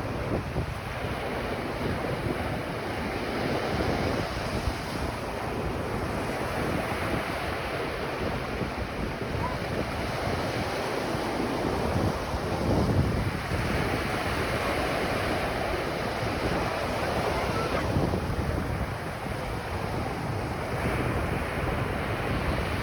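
Ocean surf on a beach: waves breaking and washing in a continuous rush, swelling louder about twelve seconds in and again about eighteen seconds in.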